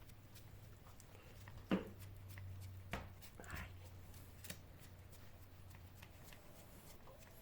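Faint rustling and handling noises with a few light knocks, the loudest about two seconds in, over a low steady hum.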